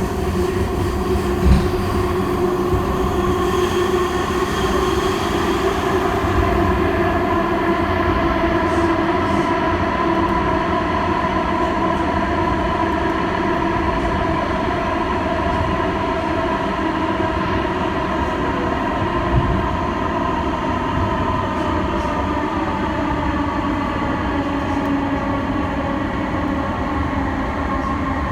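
Light-rail train running at speed: a steady rumble of wheels on rail with an electric traction motor whine that drifts slightly in pitch. Two short knocks come through, one soon after the start and one about two-thirds of the way through.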